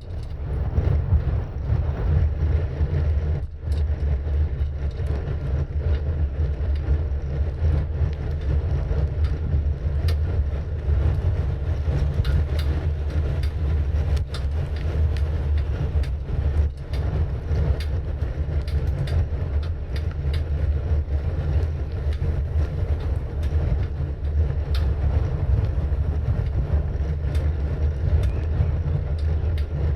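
Wind buffeting the microphone and tyre rumble of a bicycle being ridden: a steady low rumble with faint scattered ticks.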